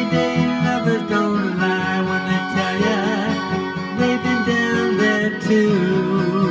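Acoustic guitar playing an instrumental break between verses of a folk song, strummed with a melody line over it.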